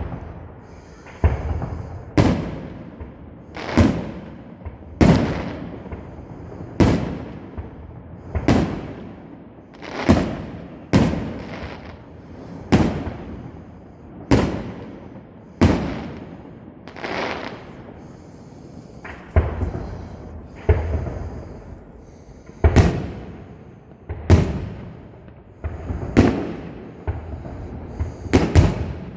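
Fireworks going off in a steady series of bangs, one every second or two, each dying away over about a second.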